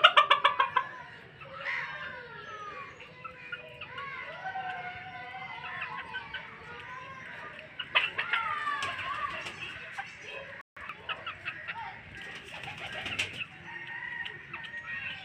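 Polish cap chickens clucking and calling, several overlapping drawn-out, wavering calls. A quick run of loud clicks comes right at the start, and a louder falling call about eight seconds in.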